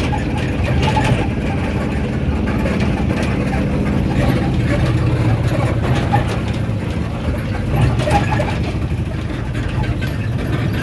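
An engine running steadily, a constant low hum with no change in speed, with faint voices now and then.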